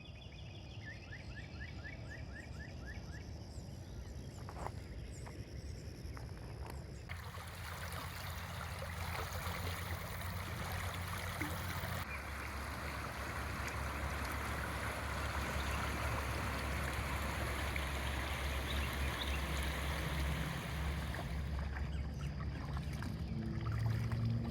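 The Middle Bosque River running high, its water rushing over rapids as a steady wash with a deep rumble underneath. The sound changes abruptly about 7 and 12 seconds in and grows louder toward the end.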